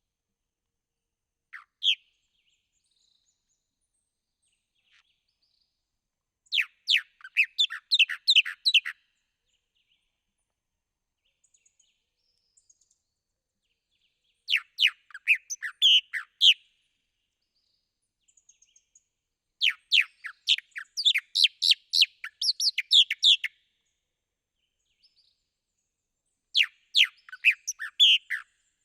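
A songbird singing four phrases of rapid, high, quick-sliding notes, each two to four seconds long, with near-silent pauses between them, after a single short note about two seconds in.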